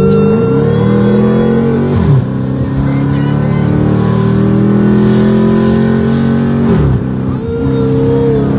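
Mopar V8 muscle car engine accelerating hard through the gears: the revs climb steadily, drop sharply at an upshift about two seconds in, climb again for several seconds and drop at another shift near the seven-second mark.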